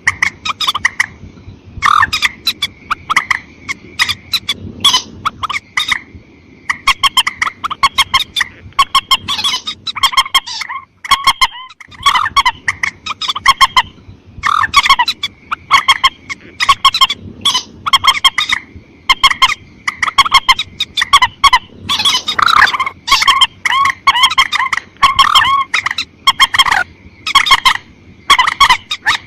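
Calls of the mandar sawah, a rail, played as a bird-catcher's lure recording: fast runs of sharp, repeated notes in bursts. There is a short break about eleven seconds in.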